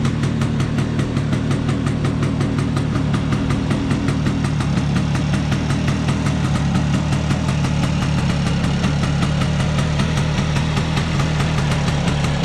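Vespa P200E's 200 cc single-cylinder two-stroke engine ticking over steadily at idle, with even, rapid firing pulses. It has just been rebuilt to cure air leaks, and the owner believes it is now sealed and airtight.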